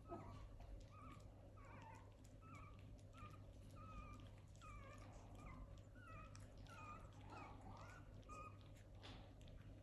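Young puppies whimpering: a long string of short, high, squeaky whines, about two a second, some bending up or down in pitch, fading out near the end. Faint small clicks and scuffles come in between.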